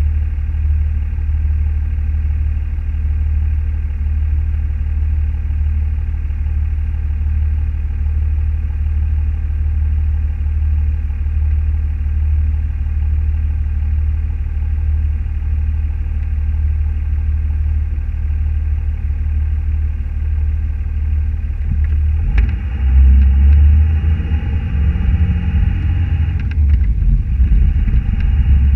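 Car engine and road noise, a steady low rumble; about 22 seconds in it gets louder and rougher.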